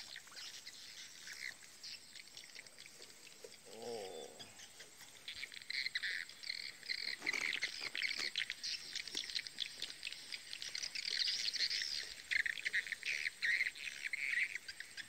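Birds chirping, many short calls, becoming busier from about five seconds in.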